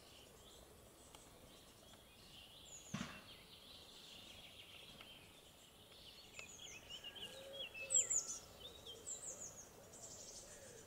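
Faint outdoor ambience with small birds chirping, short high calls coming thickly in the second half. A single knock sounds about three seconds in.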